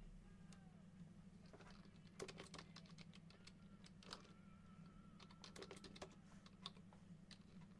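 Faint, irregular clicks and taps of small hard objects being handled, in clusters about two seconds in and again around five and a half seconds.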